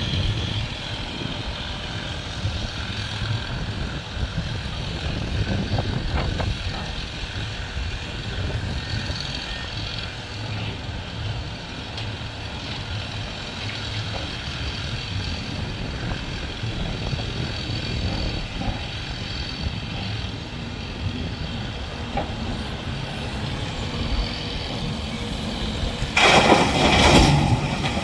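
Heavy diesel construction machinery engine running steadily with a low rumble and faint high whines. About two seconds before the end comes a loud, noisy burst, like a hiss or rattle.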